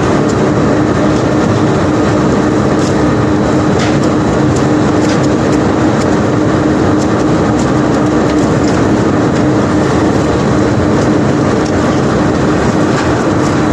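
Unloading machinery running steadily with a constant hum, while cobblestones knock and clatter in many scattered sharp clicks.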